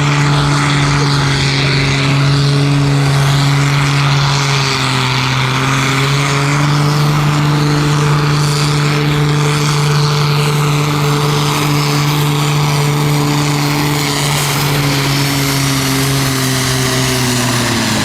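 Pulling tractor's engine running hard at steady high revs under load during a pull, its note falling near the end as the revs drop.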